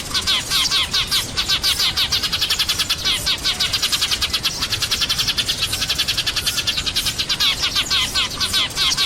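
A flock of sparrows chirping together, a dense, continuous stream of quick, high overlapping chirps.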